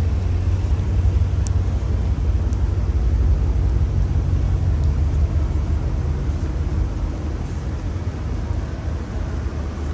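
Motor vehicle passing close on a city street: a low engine rumble that eases after about seven seconds, over a steady hiss.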